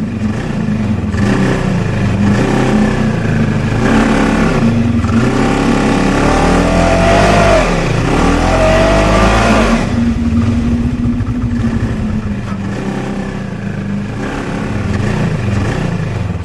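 Motor vehicle engines revving up and down repeatedly as the vehicles set off, loudest about six to ten seconds in.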